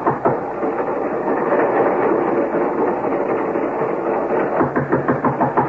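Radio-drama sound effect of a train in motion: a steady rumble of the railway carriage, with a rhythmic clatter of about five strokes a second standing out near the end.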